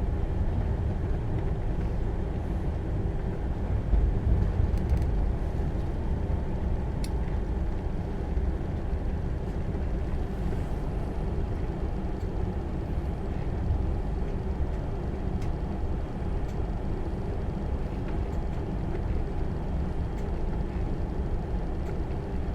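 Steady low rumble of the Enterprise train running on the track, heard from inside a carriage, with a few faint clicks.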